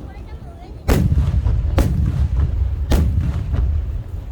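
Aerial firework shells bursting: three loud, sharp bangs about a second apart, starting about a second in, each trailing off in a low rumbling echo.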